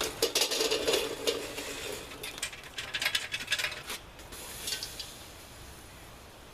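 Metal clinking and rattling in several short clusters of quick clicks, the sort made by handling metal pans, utensils or a grill grate.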